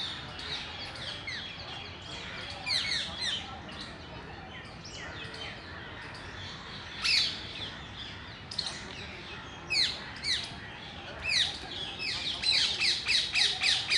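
Parrots calling with shrill, sharp screeches that sweep downward in pitch. The calls are scattered singly and in pairs at first, then turn into a fast, steady run of repeated screeches near the end.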